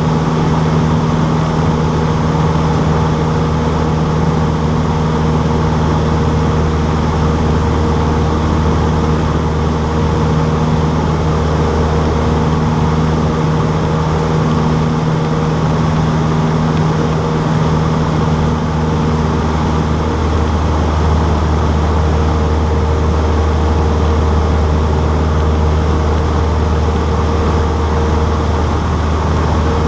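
Cessna 152's four-cylinder Lycoming engine and propeller running steadily, a loud deep drone with a few steady tones. The balance of the tones shifts slightly about two-thirds of the way through.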